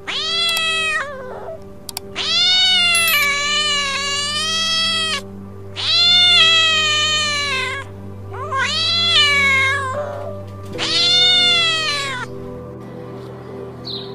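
Domestic cat meowing five times, each drawn-out meow rising then falling in pitch, the second held for about three seconds. Background music with a low steady drone runs under the meows.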